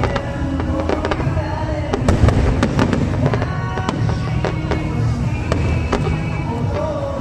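Aerial fireworks bursting and crackling in quick succession, many sharp bangs over music with a heavy bass.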